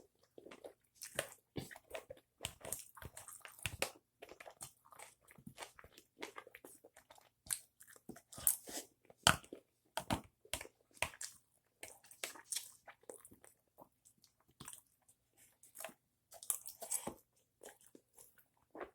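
Close-up chewing and eating sounds: wet mouth smacks and soft crunches, irregular and continuous, as a person eats a sushi bowl.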